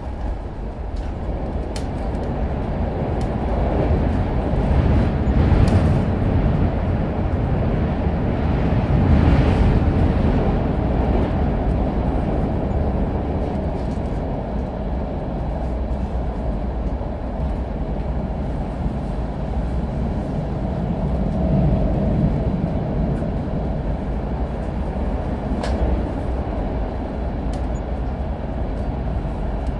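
Train running along the track: a steady low rumble of wheels on rails that swells about five and again about nine seconds in, with a few sharp clicks.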